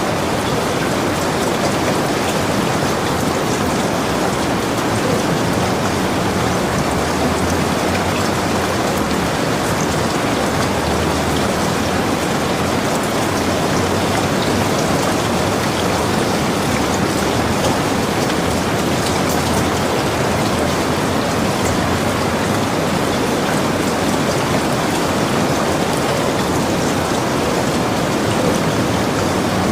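Steady rain falling, an even, unchanging hiss of drops with no thunderclaps.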